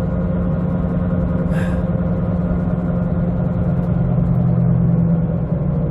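Jeep Compass on the move with a loud, steady low hum and grinding rumble from the wheels, which the owner takes for both wheel bearings worn out from sitting in storage.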